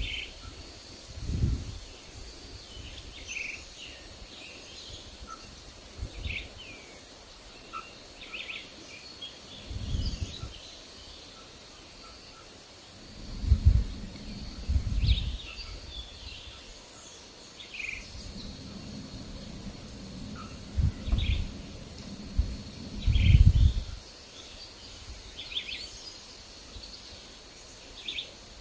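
Songbirds chirping in short scattered calls over a faint steady hiss, with gusts of wind rumbling low and loud several times.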